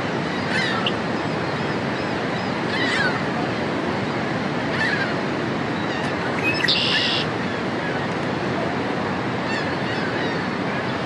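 Red-winged blackbird calling: short, sweeping calls about every two seconds, then a loud buzzy trill a bit past halfway, over a steady rushing noise.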